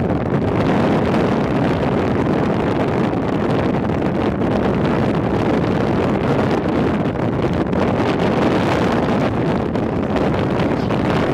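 Strong thunderstorm winds buffeting a car: a steady, loud rushing noise with wind blowing across the microphone.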